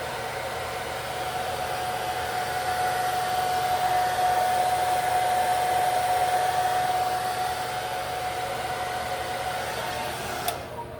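Hair dryer running on low heat, a steady rush of air with a whine, drying lace-wig adhesive until it turns tacky. It grows a little louder in the middle and is switched off with a click near the end.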